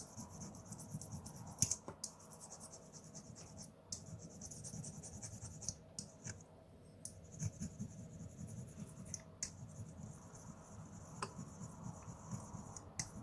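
A coarse 320–400 grit tempered glass file rubbing back and forth on a plastic model kit part: faint, uneven scratchy sanding strokes with a few light clicks.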